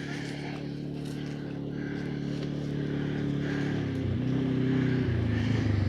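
Side-by-side UTV engine running and gradually getting louder. Its pitch drops about four seconds in, then holds steady.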